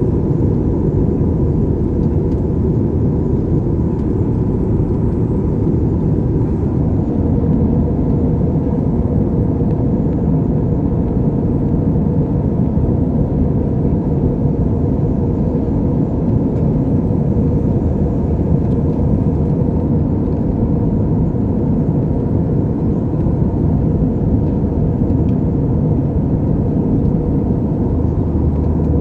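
Steady cabin noise of an Airbus A320-family jet airliner in flight: the even rush of engines and airflow heard from inside the cabin.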